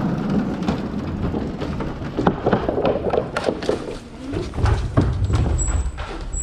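Dirt-jump bike being ridden over a trail: steady tyre rumble with irregular clicks and knocks from the bike, and a heavier low rumble about two thirds of the way in.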